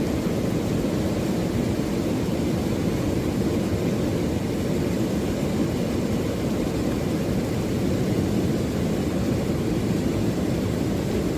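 Steady low rumbling noise with no distinct tones or individual knocks, even in level throughout.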